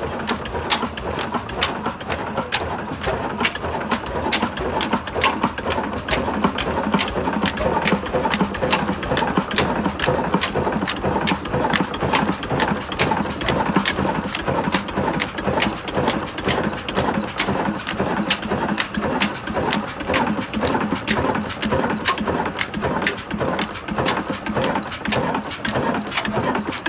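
Heavy old diesel engine running with a steady, even knocking beat.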